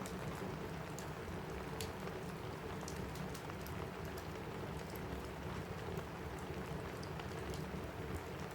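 Steady rain pattering on a roof, with sharp crackles and pops from a wood fire scattered irregularly through it.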